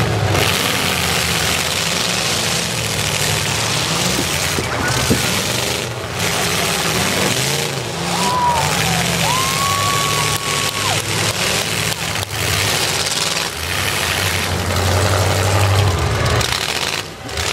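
Demolition derby cars' unmuffled engines running and revving, with crowd noise from the grandstands. A short high tone glides down and then holds about halfway through.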